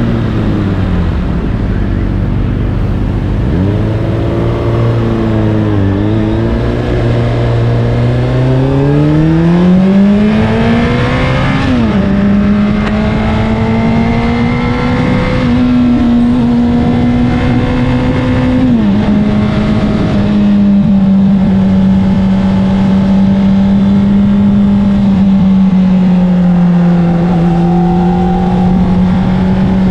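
Honda CBR600RR's inline-four engine through an Akrapovic exhaust, on the move: a low steady note for the first third, then a steady rise in pitch under acceleration, a sudden drop at an upshift, and steady cruising with a second shift about two-thirds of the way in.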